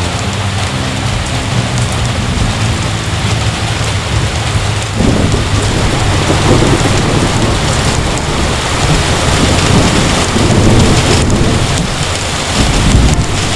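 Heavy rain falling steadily, with thunder rumbling in about five seconds in and swelling a few times after that.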